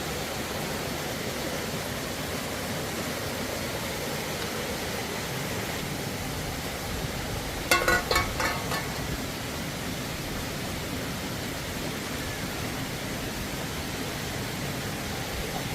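Steady rushing noise throughout, with a brief cluster of several short, sharp sounds about halfway through.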